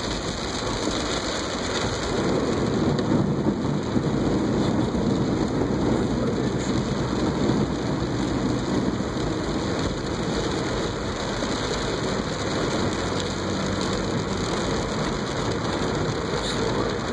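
Steady rush and spray of floodwater around a car driving through a flooded street, heard from inside the cabin, swelling slightly a few seconds in.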